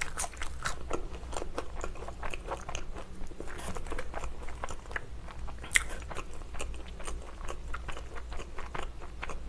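Close-miked chewing of a mouthful of Burger King Monster Whopper and french fries: an irregular run of small crunches and mouth clicks, with one sharper click about six seconds in.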